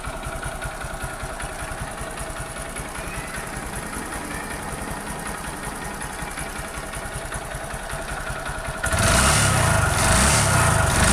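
Honda MSX125SF's single-cylinder four-stroke engine idling steadily just after starting, then suddenly louder and rougher about nine seconds in.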